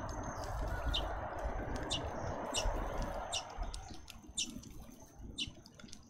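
Small birds giving short, sharp chirps about once a second, over a rushing background noise that fades after about four seconds and a thin steady high-pitched whine.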